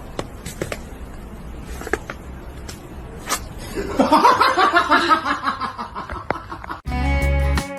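A person laughing for a couple of seconds, starting about four seconds in, over faint background noise with a few clicks. Near the end it cuts off abruptly and guitar music starts.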